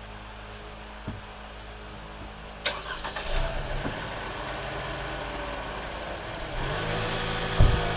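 Car engine starting after a sharp click, catching about three seconds in and settling into a steady idle, rising slightly near the end; it is the donor car being started to jump-start a truck that won't start. A thump lands just before the end.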